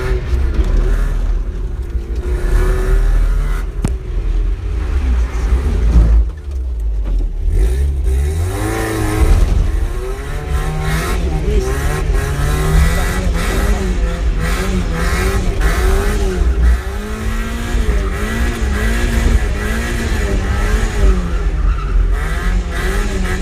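Mazda MX5's standard 1.6-litre four-cylinder engine revving up and down over and over as the car is driven in a drift, over a heavy low rumble. About six seconds in the engine drops off, then climbs steeply again.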